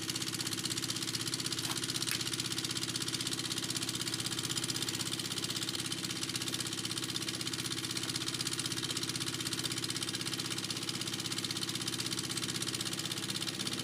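A machine running steadily with a fast, even pulse and no change in speed.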